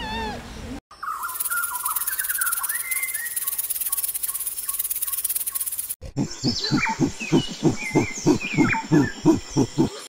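A string of animal calls in short cut-together pieces. First comes the tail of a bending, pitched call, then bird whistles over a high, steady insect-like drone. From the middle on there is a run of about a dozen loud, rhythmic calls, about three a second, which are the loudest sound.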